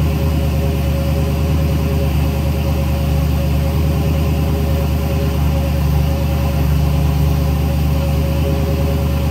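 1973 Ford Bronco engine idling steadily on its newly installed Holley Sniper 2 throttle-body fuel injection.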